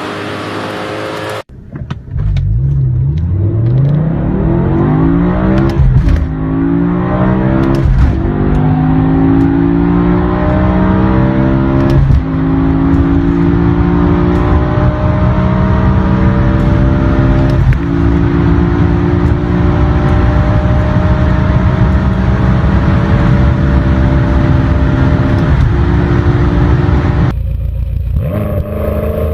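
BMW M5 engine accelerating at full throttle through the gears: the engine note climbs steadily in pitch, dropping sharply at each upshift, about five shifts in all, each gear pulling longer than the one before. A sudden cut about a second and a half in and another near the end switch to a different engine sound.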